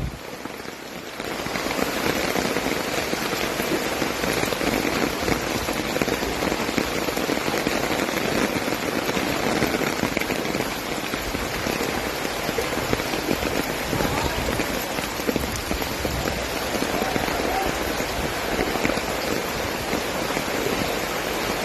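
Heavy rain falling steadily, a dense, even hiss that comes up to full strength about a second in.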